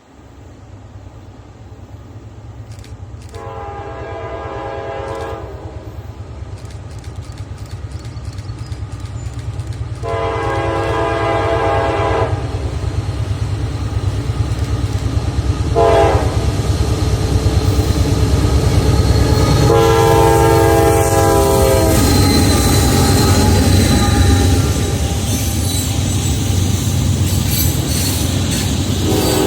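Diesel freight locomotive approaching and passing, its engine rumble growing steadily louder while its multi-tone horn sounds two long blasts, a short one and a long one: the standard grade-crossing warning. Then the wheels rattle and click over the rails as the train goes by, and the horn starts again near the end.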